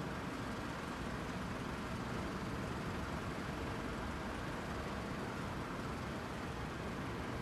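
Steady rumble and hiss of airliner jet engines, holding an even level without rising or falling.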